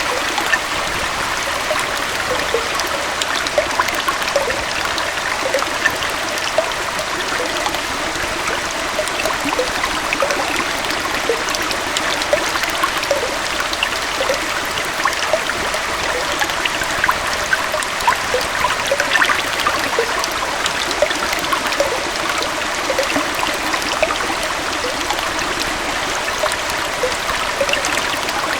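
Small waterfall and stream: water splashing and trickling over rocks, with a steady rush and frequent small gurgles and drips.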